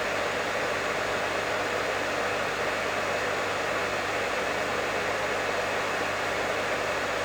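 Professional hair dryer running steadily: an even, unbroken rush of air with a faint low hum under it.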